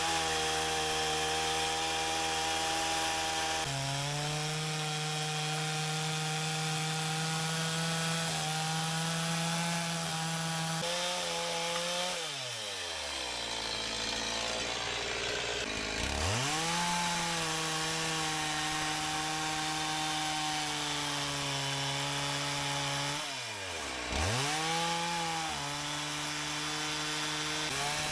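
Petrol two-stroke chainsaw at full throttle ripping a log lengthwise in a chainsaw mill carriage, its pitch sagging a little under load. About twelve seconds in the revs fall away to idle for a few seconds, then it revs back up and cuts on, with a brief dip in revs a little before the end.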